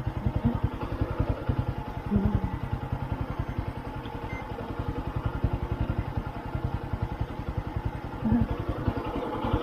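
Small motorcycle engine idling, an even, rapid putter of exhaust pulses at a steady pace.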